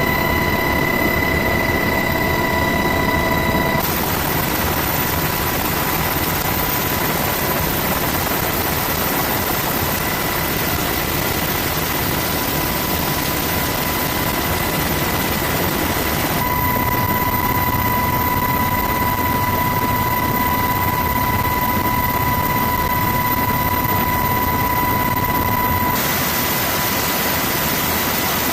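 Steady, loud in-flight noise of military turbine aircraft: a dense rushing with a high steady whine. The sound changes abruptly about 4, 16 and 26 seconds in.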